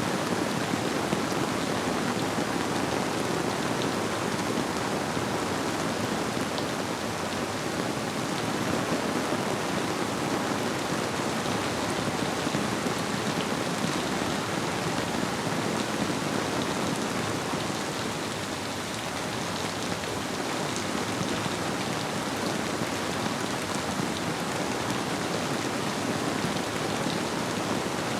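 Steady rainfall blended with the flow of a river: an even, unbroken wash of water noise, with a few individual drops ticking through it.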